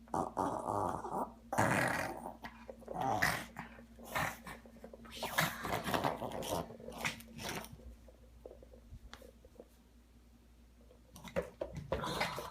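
Yorkshire terrier making a string of rough, raspy bursts with short gaps between them, easing off for a few seconds before starting again near the end.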